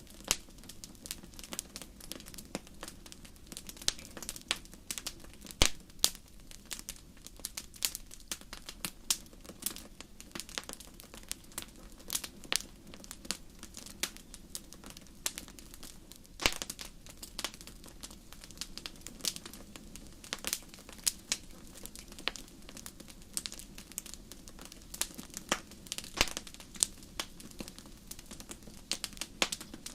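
Wood fire crackling in a fireplace: a steady stream of irregular sharp pops and snaps, some much louder than others, over a low, even rumble of the flames.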